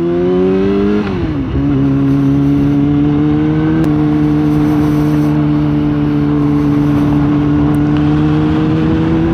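Motorcycle engine running under way: its pitch rises through the first second, dips briefly about a second in, then settles into a steady drone that creeps slowly higher.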